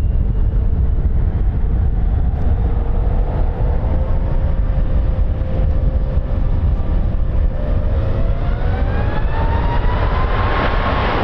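Aircraft engines at takeoff power: a heavy rumble under a whine that holds steady, then rises in pitch in the second half.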